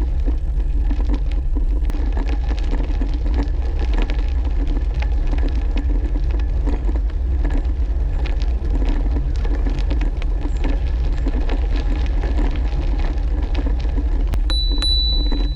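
Brompton folding bicycle ridden over a rough, muddy towpath: the frame rattles and the tyres crackle over the ground, over a steady low rumble. A brief high steady tone sounds near the end.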